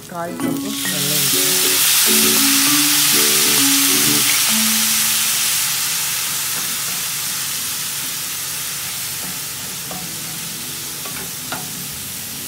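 Hot pan of fried tilapia in onion-spice masala sizzling loudly as a splash of liquid from a measuring cup hits it about a second in; the hiss slowly dies down as a wooden spatula stirs the fish.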